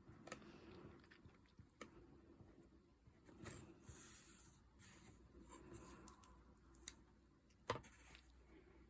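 Faint taps and scratches of a fine liner pen dotting a border onto watercolour card, with a few sharper clicks scattered through.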